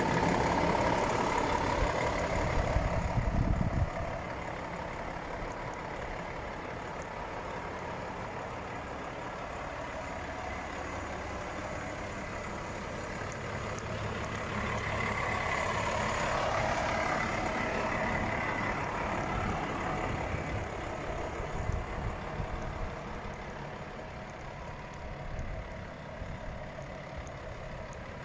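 Volvo FH 500 truck's 13-litre six-cylinder diesel engine idling steadily. It is louder for the first four seconds, then settles.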